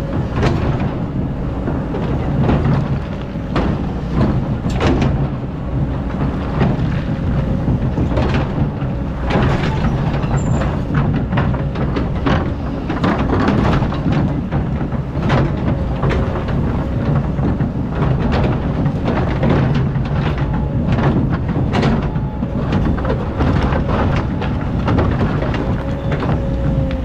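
Excavator's diesel engine running under load, with frequent scraping and knocking as the bucket digs into hard-packed sand.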